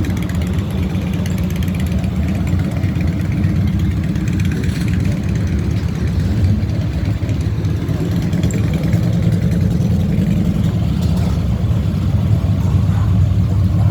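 A car engine idling close by, a steady low rumble throughout.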